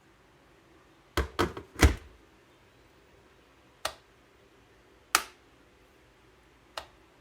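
Sharp clicks and knocks from handling an electric kettle. Three come close together about a second in, the last the loudest with a dull thud, followed by single clicks every second or so. There is no boiling sound.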